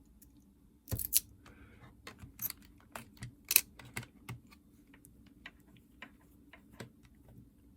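Irregular small clicks and taps of hand work on a Nintendo DS Lite's plastic shell and screws, a couple of sharper clicks about one and three and a half seconds in, thinning out toward the end.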